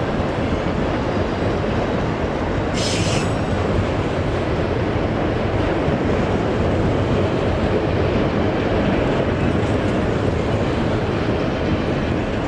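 Freight cars of a CSX manifest train rolling steadily past, steel wheels running on the rails, with a brief high screech about three seconds in.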